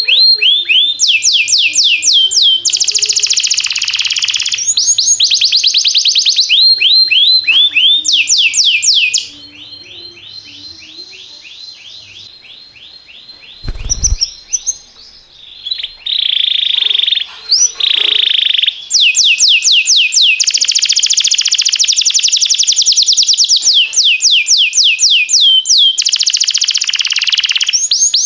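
Domestic canary singing long rolls of very fast repeated notes, changing from one rolled phrase to the next. A softer, thinner trill runs for a few seconds about nine seconds in, and a single brief dull thump comes around fourteen seconds.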